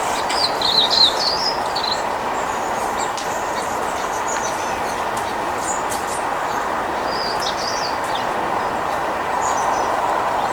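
Small songbirds chirping in short high twittery bursts, loudest about a second in, over a steady rushing background noise.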